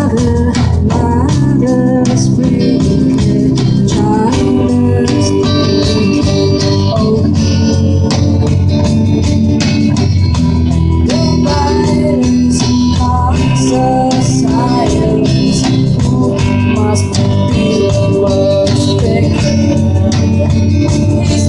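Rock band music with guitars and drums, with singing over it.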